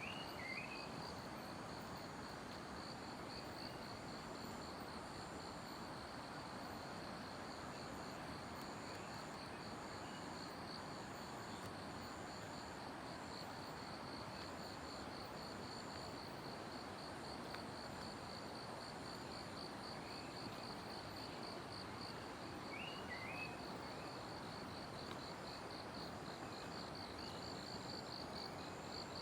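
Forest insects trilling steadily in a fast, even, high-pitched pulsing chorus, over a steady rushing background. A few short bird chirps come in at the start and again about 23 seconds in.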